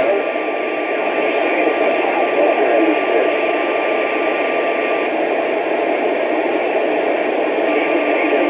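Loud, steady static hissing from a CB radio speaker, with a faint whistle tone in it that drops out about five seconds in.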